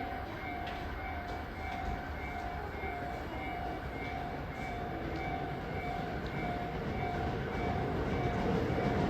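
Tobu 8000 series electric train approaching the station platform, its rumble growing louder near the end. Over it a warning bell rings in a steady on-off repeating pattern.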